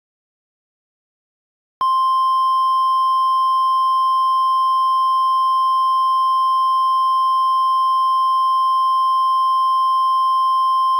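About two seconds of silence, then the NOAA Weather Radio warning alarm tone: a single steady, unbroken 1050 Hz tone that signals an urgent weather warning is about to be read.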